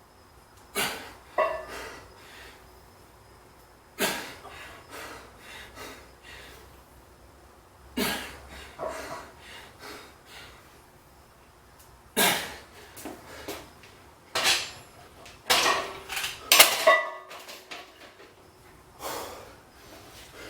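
Sharp clanks and knocks of gym equipment: single knocks about every four seconds, then a quick cluster of several a little past the middle.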